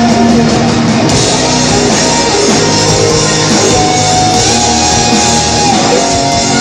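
Live rock band playing loudly: an instrumental passage of the song with no singing.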